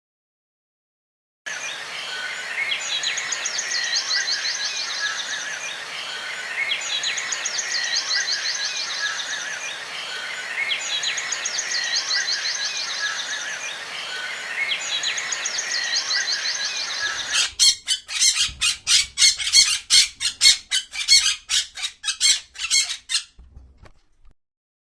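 Birds calling: a trilling phrase repeats about every four seconds over a steady background hiss, then about two-thirds of the way in it changes to a rapid run of loud, sharp chirps, several a second, which stop shortly before the end.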